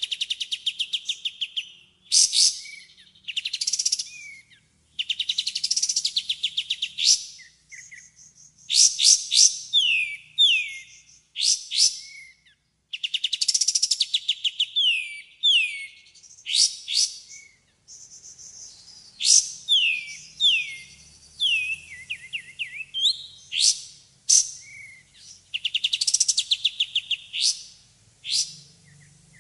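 White-rumped shama (murai batu) singing a long, varied song with almost no pause: fast rattling runs of repeated notes, high clear whistles and quick down-slurred notes, one phrase after another.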